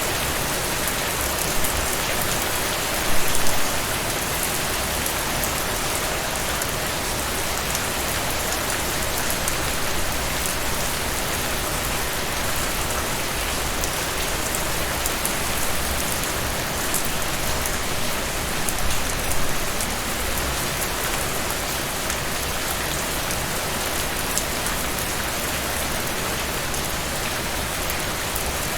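Heavy rain falling steadily, a dense even patter with a few louder drops splashing about three seconds in and again near the twentieth second.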